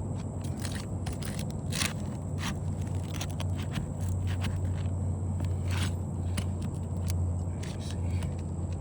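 Scraping and irregular sharp clicks and crackles of asphalt shingles being pried loose with a roof snake shingle-removal tool, over a steady low hum.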